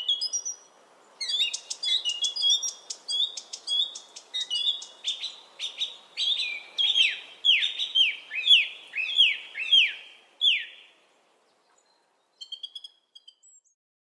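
A bird singing. Short chirps are followed by a run of downward-sliding whistled notes, about two a second, which stops about eleven seconds in. A few faint short chirps come near the end.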